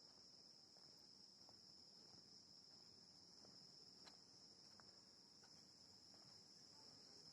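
Faint, steady high-pitched insect trill, like crickets, with a few faint scattered ticks.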